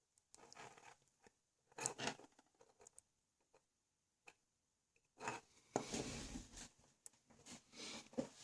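Small plastic parts being handled and worked by hand: scattered light clicks and rustles, then a longer stretch of scraping and rustling from about five seconds in.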